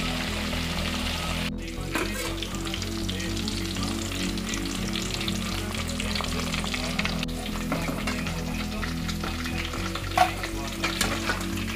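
Sweet potato wedges deep-frying in hot oil in a steel pot: a steady crackling sizzle over soft background music. A single sharp clink sounds about ten seconds in, as a metal skimmer lifts the fried pieces out.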